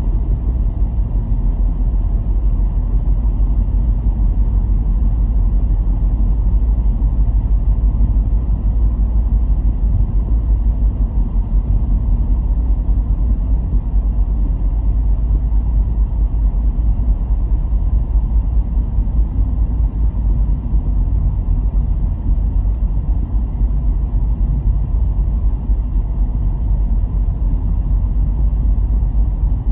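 A car driving at a steady pace: a constant low rumble of engine and road noise that does not change.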